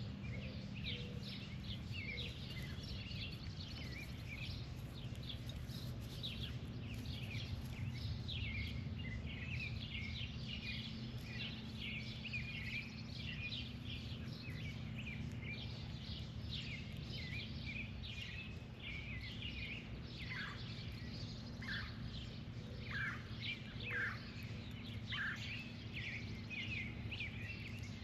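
Many birds chirping and calling in a busy, continuous chorus, with a few longer falling calls between about 20 and 25 seconds in. A steady low hum runs underneath.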